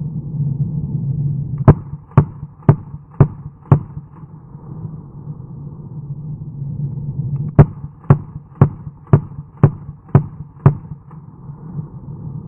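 WASR AKM rifle in 7.62x39 firing single shots at a steady pace of about two a second. It fires five shots, pauses about four seconds, then fires seven more, over a steady low hum.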